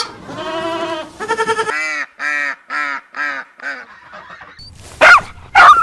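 Animal calls: a drawn-out bleat, then a run of five short honks at about two a second. Near the end come loud, high, wavering yelps.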